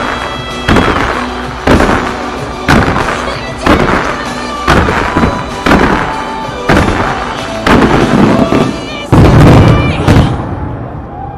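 Fireworks shells bursting about once a second over music with a steady pulse, building to a dense, loud volley of bursts near the end before the bangs stop and the music carries on alone.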